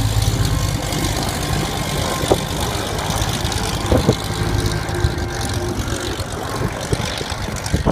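Propeller airplane engine running, mixed with wind noise on the microphone.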